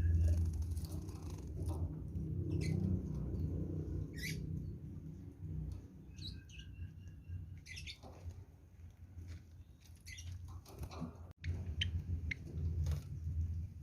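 Java sparrows bathing: soft pattering splashes and scattered short chirps, over a steady low rumble.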